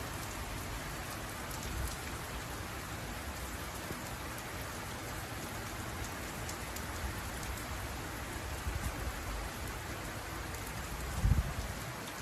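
Heavy rain falling steadily, with a brief low thump about eleven seconds in.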